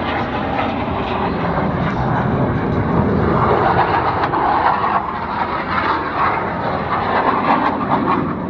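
Jet noise from the Blue Angels' F/A-18 jets flying the demonstration: a continuous loud rushing sound that swells about three seconds in and again a few seconds later.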